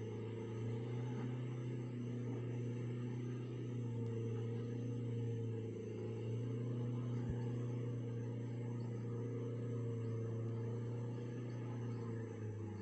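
Car engine running with a steady low drone as the car crawls slowly along a deeply rutted mud road.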